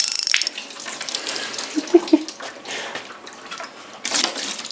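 Coolant splashing and pouring out of a removed Mazda rotary engine as its shaft is turned over by hand, with a couple of short knocks about two seconds in. The coolant is escaping through a blown coolant seal into the rotor housing and exhaust port.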